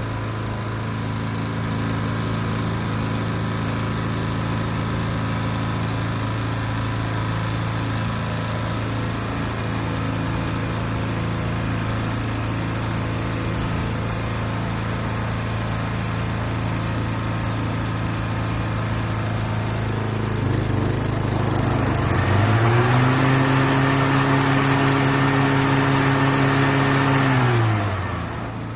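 Toro TimeMaster walk-behind lawn mower engine running steadily just after a cold start from winter storage. About three quarters of the way through it revs up, holds the higher speed for about five seconds, then drops back down.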